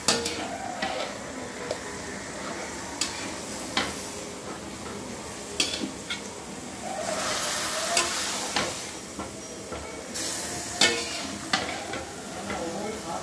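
Marinated chicken pieces sizzling in oil in a metal kadai while a metal spatula stirs them, the spatula scraping and knocking sharply on the pan several times. The chicken is being kosha'd, fried down in its ginger-garlic marinade, and the sizzle swells for a second or two twice in the second half.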